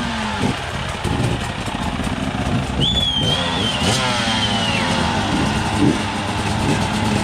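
Enduro motorcycle engine running and revving, the pitch climbing and falling through the throttle changes, over a steady rush of riding noise. A thin high whistle-like tone sounds for about two seconds near the middle.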